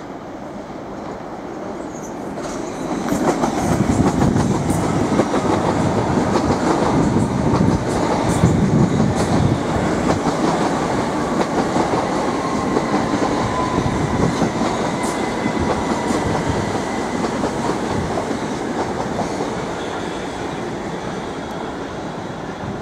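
Southern Class 377 electric multiple unit running past: wheels clattering on the track, building about three seconds in and then slowly fading. A faint whine falls slightly in pitch midway.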